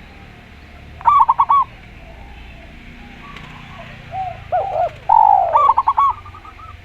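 A zebra dove and a spotted dove cooing. A quick run of about four short high coos comes about a second in. After a pause there are lower coos, a longer falling note, and another quick run of high coos that trails off near the end.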